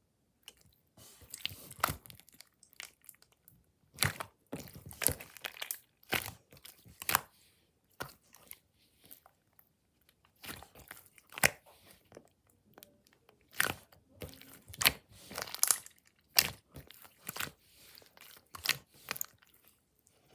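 Hands pressing, squeezing and stretching slime, giving irregular bursts of sharp clicking and crackling pops with short pauses between handfuls.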